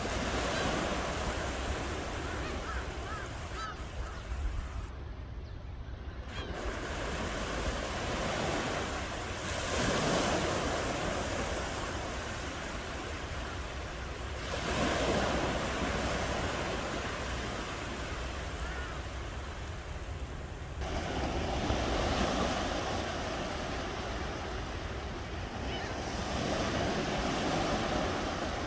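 Ocean waves breaking and washing on the shore in repeated swells, each one rising and falling away about every five to six seconds, over a steady low rumble.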